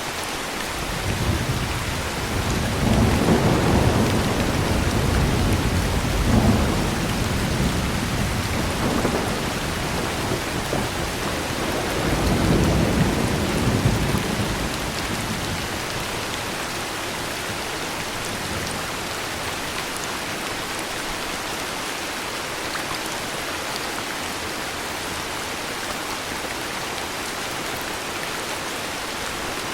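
Steady heavy rainfall with a long roll of thunder that rumbles deep and low through the first half, swelling a few times before dying away about halfway through while the rain keeps falling.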